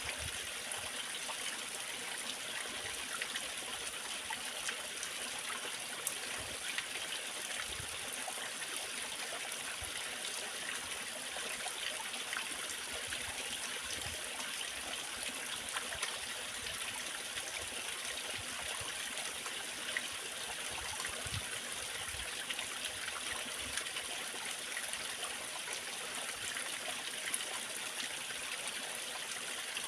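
Waterfall water splashing and rushing steadily, with small droplet splashes scattered through it.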